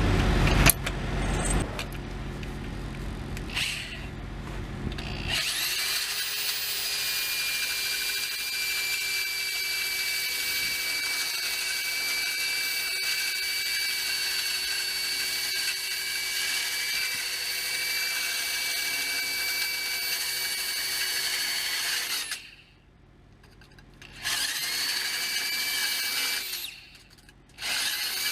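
A few seconds of knocking and low rumble, then a drill with a small cutoff wheel runs with a steady high whine as it cuts the old exhaust flex pipe. Near the end it stops twice and winds back up each time.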